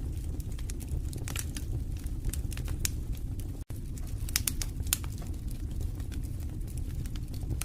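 Wood fire burning in a fireplace: a steady low rumble of flames with frequent sharp, irregular crackles and pops. The sound drops out for an instant a little past halfway.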